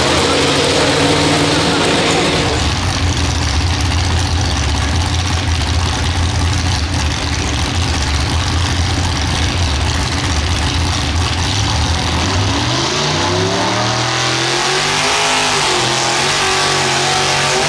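Pulling tractor's engine running loud and steady. About twelve seconds in it revs up over a few seconds and then falls back.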